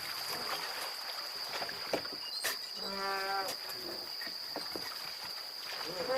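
Boat ambience on the river during cormorant fishing: a steady background hiss with a constant high-pitched whine, a couple of faint knocks, and one short held call about three seconds in.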